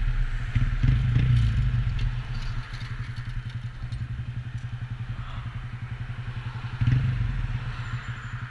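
Honda Grom's small single-cylinder engine running low in the revs, then settling to an idle with an even, rapid pulse about two and a half seconds in. A brief rev swells up about seven seconds in.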